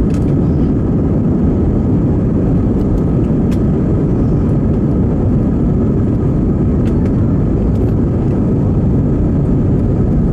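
Steady cabin noise of an Airbus A320 in operation: a constant low rumble of engines and airflow with no change in level, and a few faint clicks.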